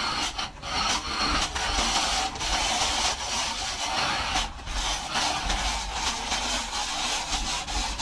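Plastering tool scraping and rubbing across a wall in long strokes, with short breaks between strokes.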